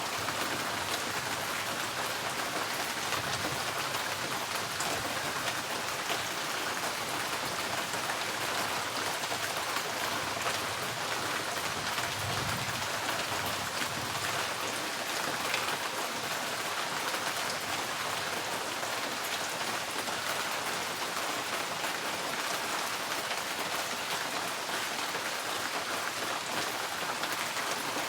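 Steady rain pattering on a tin porch roof, a dense, even patter of drops on the metal.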